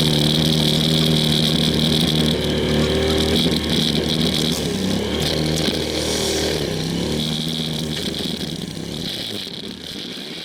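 Small mini-motocross bike engines running, with the pitch shifting in the middle and the sound growing steadily quieter toward the end.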